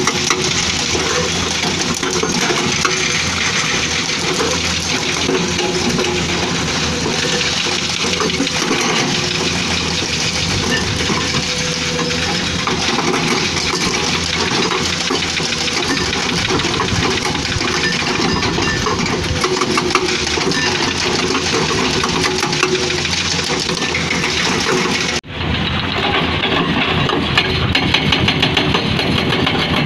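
Excavator diesel engine running steadily, under a rapid, continuous hammering from a hydraulic rock breaker. The sound breaks off abruptly about 25 seconds in and resumes with less of the high, sharp content.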